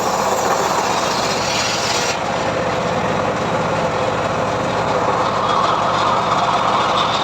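Homemade engine-driven sawmill running, its blade ripping through a mahogany log: a steady engine hum under the noise of the cut, whose higher part eases about two seconds in.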